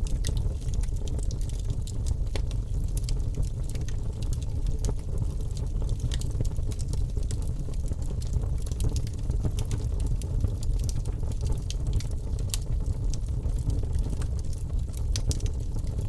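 Wood fire in a fireplace crackling, with many small sharp pops scattered irregularly over a steady low rumble of the flames.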